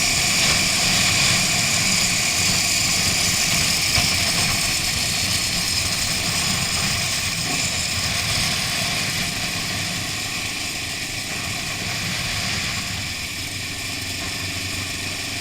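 Honda CB 500 parallel-twin engine running steadily while riding, under a steady rush of wind and road noise, getting somewhat quieter after about ten seconds.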